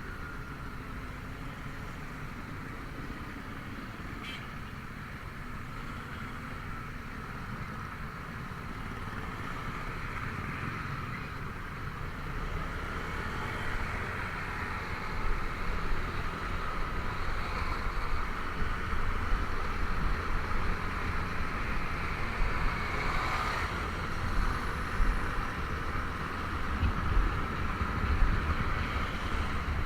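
Honda Vario 125 scooter's single-cylinder engine running while riding, mixed with road noise. Wind rumble on the microphone grows louder and gustier over the second half.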